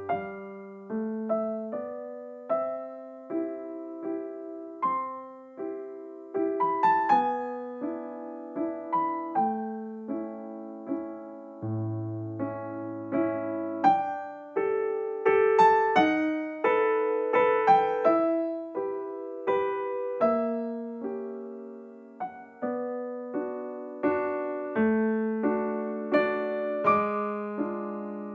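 Background piano music: a gentle melody of single notes over a soft accompaniment.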